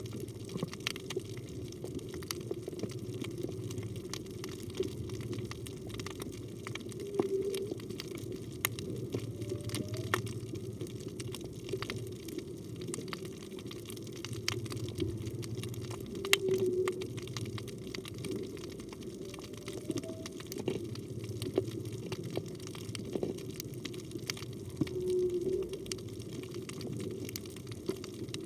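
Underwater ambience: a steady crackle of clicks over low water noise, with faint short tonal calls recurring about every nine seconds, some rising in pitch, which the diver takes for humpback whale song.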